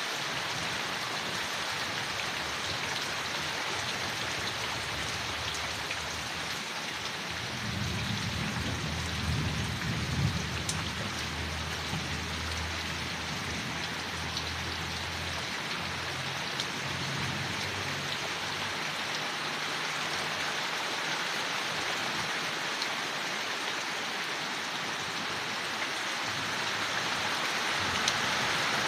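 Steady rain falling on forest leaves. A low rumble rises about eight seconds in and fades away over the next ten seconds.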